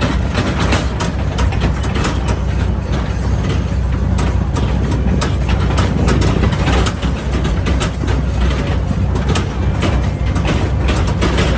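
Tractor engine running steadily with a low, heavy drone, over constant rattling and knocking as the tractor moves along.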